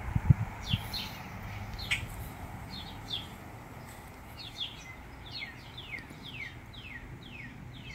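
A songbird singing runs of short down-slurred whistles, three or four notes a second, over faint outdoor background noise. A few low thumps come in the first second.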